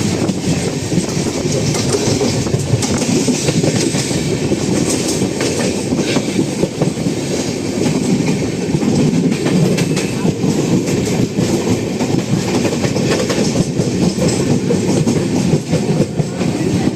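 Running express passenger train heard from a coach doorway: a loud steady rumble of wheels on rails with frequent sharp clicks and clatter over the track.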